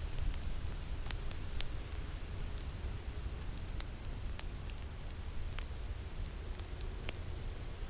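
Crackling fire with irregular sharp pops and snaps over a steady low rumble of winter wind.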